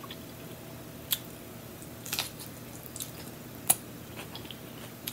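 Close-miked chewing of a lettuce-leaf wrap of chicken salad: quiet wet mouth sounds with a handful of sharp lip smacks, over a faint steady hum.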